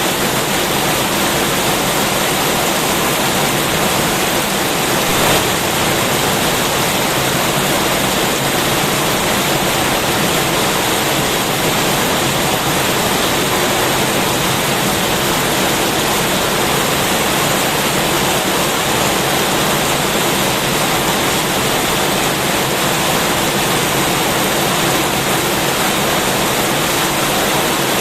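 Heavy rain pouring steadily, a dense, even hiss that stays unchanged.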